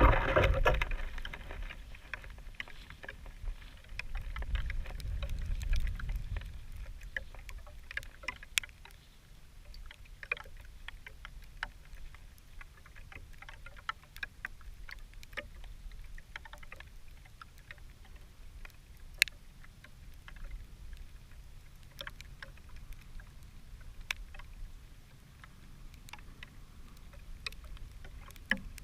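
Small campfire crackling, with scattered sharp pops at irregular moments over a faint steady background. A low rumble swells and fades a few seconds in.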